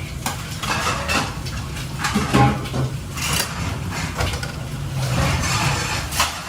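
Kitchen clatter: metal utensils and cookware clinking and scraping in quick, irregular knocks.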